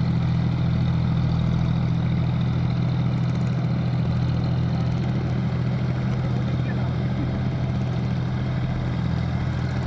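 John Deere 5050D tractor's diesel engine running steadily at low revs.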